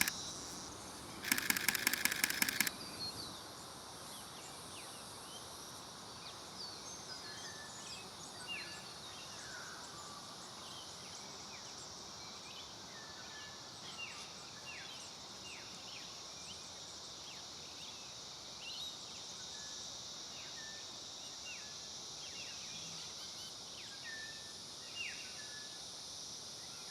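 A rapid burst of camera shutter clicks from a Nikon Z50ii, about ten a second for roughly a second and a half, starting about a second in. Under it and after it, a steady high insect drone with short bird chirps scattered throughout.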